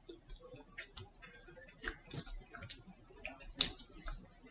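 Mouth sounds of a person chewing a cheeseburger close to the microphone: a run of irregular clicks and smacks, the loudest about three and a half seconds in.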